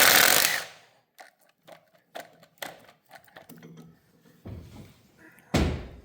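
Metal tools and engine parts clinking and knocking during work on a Chevy 350's bottom end while a connecting-rod cap is pulled. There is a loud, noisy burst in the first half second, then scattered light clicks, and a heavy thunk near the end.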